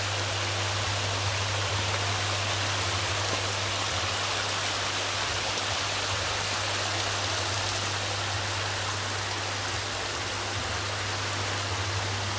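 Steady rush of flowing spring water, an even hiss with no breaks, over a steady low hum.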